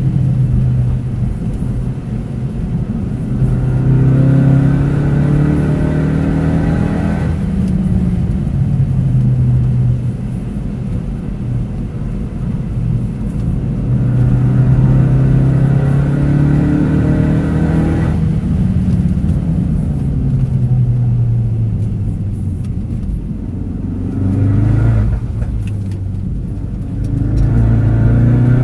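Ford Focus RS engine heard from inside the cabin at racing pace, its note climbing under acceleration and dropping away abruptly when the driver lifts for corners, about a quarter of the way in and again past halfway, then climbing again near the end. A steady hiss of tyres on the wet track runs beneath it.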